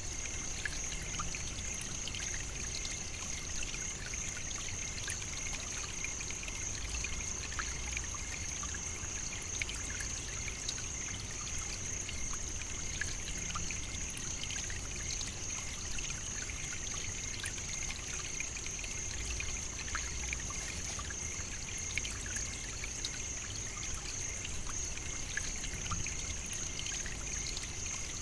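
Savannah night ambience: a steady, high-pitched insect chorus with a lower, fainter second drone, scattered small ticks and a soft low rumble.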